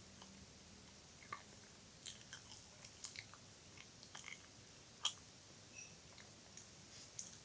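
Faint close-up wet mouth sounds: irregular soft smacks and clicks, the sharpest one about five seconds in.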